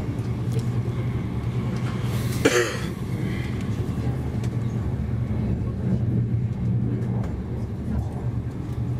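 Steady low rumble of a VR InterCity train heard from inside the passenger carriage while running. About two and a half seconds in there is one brief, sharp burst of noise.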